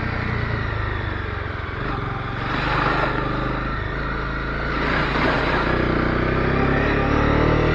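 Honda CB250R single-cylinder engine running under way, its pitch shifting with the throttle. Wind and road noise swell and fade a couple of times.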